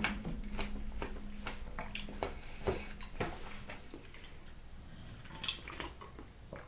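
Close-up chewing of a mouthful of berries, grapes and ice in coconut water: wet, squishy mouth sounds with irregular sharp clicks and crunches, about one or two a second, growing fainter toward the end.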